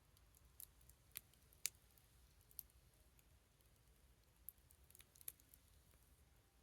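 Small wood fire crackling faintly: sparse, sharp pops and ticks at irregular intervals, the loudest about a second and a half in, over a low steady hum.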